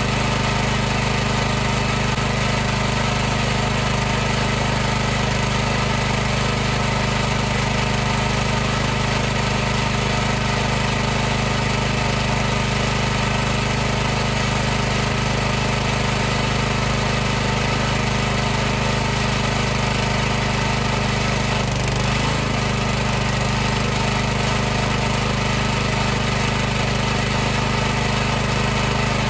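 High-pressure washer's motor and pump running steadily: a constant hum over a hiss, with a brief dip in pitch about three-quarters of the way through.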